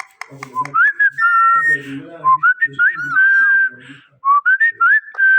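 Indian ringneck parrot whistling: a string of clear whistled notes that slide upward and then hold, about six of them, with a lower warbling voice underneath.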